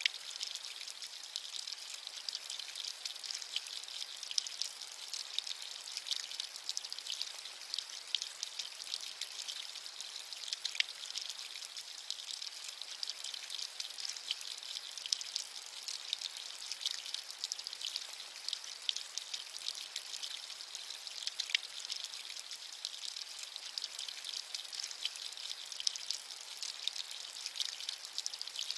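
Steady rain with many fine, crisp drop ticks over a soft high hiss, with no low rumble.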